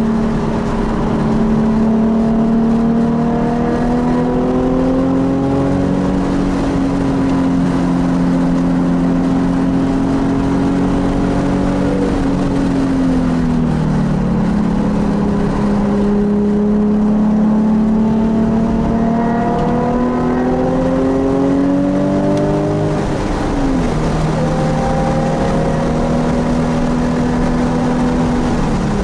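Nissan 370Z's 3.7-litre V6 heard from inside the car on track. The engine pitch climbs slowly under throttle, falls away about halfway through and again sharply about three-quarters through, with another drop near the end. Road and wind noise runs underneath.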